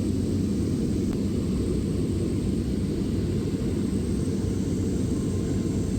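Small propeller airplane in flight, its engine and the airflow making a steady low drone.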